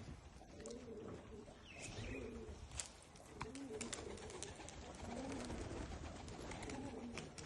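Domestic pigeons cooing, in short repeated arching calls, with scattered light clicks.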